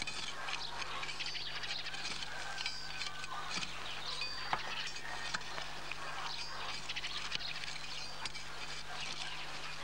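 Birds chirping and calling here and there, over a steady low hum.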